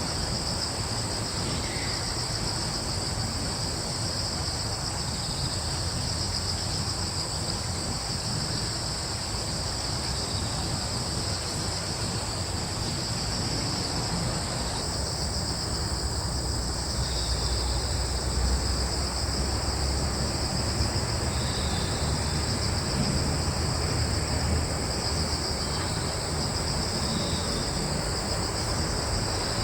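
A steady chorus of crickets trilling without a break. A low rumble beneath it swells for several seconds in the middle, and a few faint chirps come in the second half.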